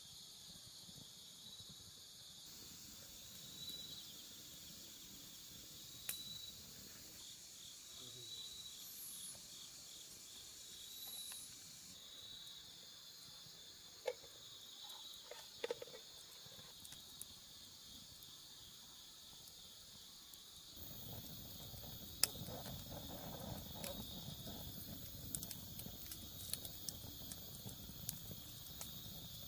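Insects chirping steadily in a high, thin band, with a few sharp clicks. About two-thirds of the way through, a low rustling noise with small crackles joins in and becomes the loudest sound.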